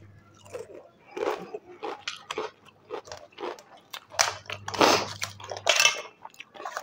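Close-up chewing and crunching of crisp food, such as potato chips or papad, in irregular crackly bites that are loudest and come thickest about two-thirds of the way through.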